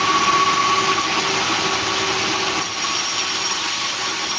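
Sawmill machinery running steadily: an engine drone under an even mechanical noise with a steady whine. A bit past halfway the whine fades and a higher hiss comes up.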